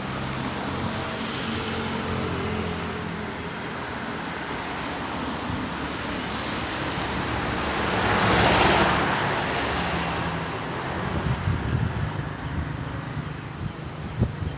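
Road traffic: an engine hum at first, then a vehicle passing close by, loudest about eight or nine seconds in and fading away.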